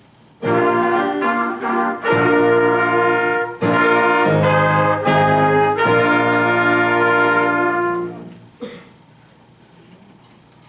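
Brass fanfare: several short, loud phrases with brief breaks between them, ending about eight seconds in. A single brief knock follows shortly after.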